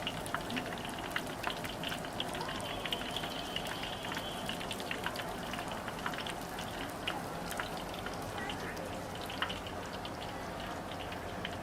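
Food frying in hot oil in a wok: a steady sizzle with frequent crackles and pops.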